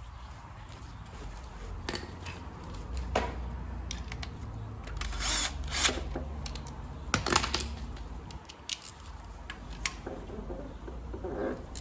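A small power tool's motor whirring low and steady, with sharp metallic clicks and knocks, the loudest about five and seven seconds in, as the small 10 mm bolt of the crankshaft position sensor is driven in.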